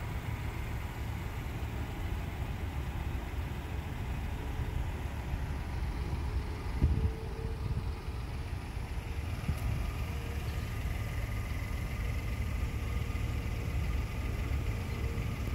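2020 Kia Cadenza's 3.3-litre V6 idling steadily after a remote start, a low even rumble. A single brief knock about halfway through.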